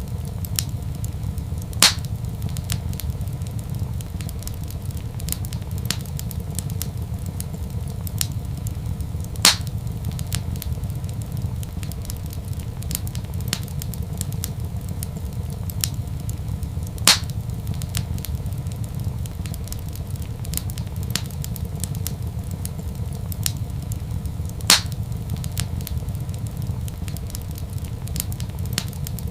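Crackling wood fire in a fireplace: a steady low rumble under many small crackles, with four louder pops at even intervals of about seven and a half seconds.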